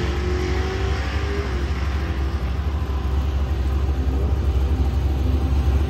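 Chevrolet Camaro Z28's V8 engine idling with a steady, deep low rumble.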